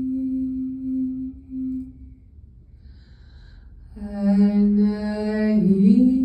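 A voice toning long, sustained wordless notes. One held note fades out about two seconds in. After a short pause, a lower note begins about four seconds in and slides up in pitch near the end.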